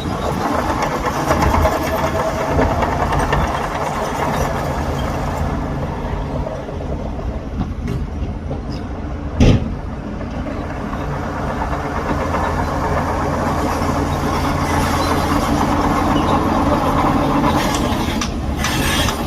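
Heavy diesel earthmoving machinery running steadily, with one sharp clank about halfway through.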